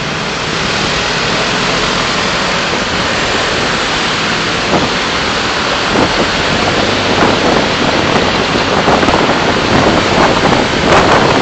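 Steady road and wind noise of a car driving, picked up by its dashcam, slowly growing louder, with a few light knocks in the second half.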